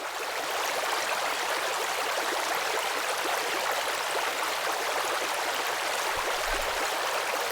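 Steady rush of running water from a stream, fading up in the first moment and then holding even throughout.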